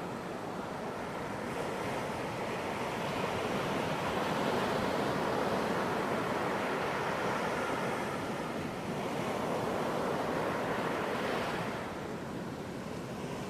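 Ocean surf breaking on a beach: a continuous wash of waves that swells and then eases near the end.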